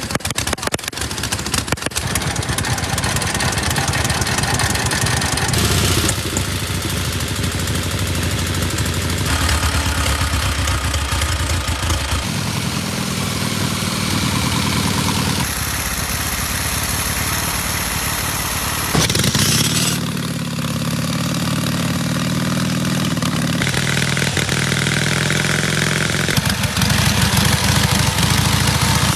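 Veteran and vintage motorcycle engines running, one machine after another, with sudden changes from one engine to the next about every three to four seconds.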